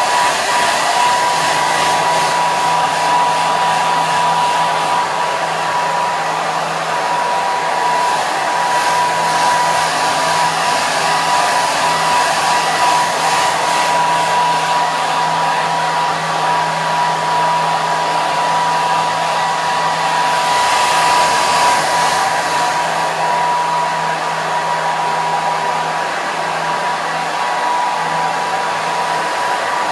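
Hair dryer running continuously: a steady rush of air with a constant whine from the motor and a low hum, swelling slightly about two-thirds of the way through.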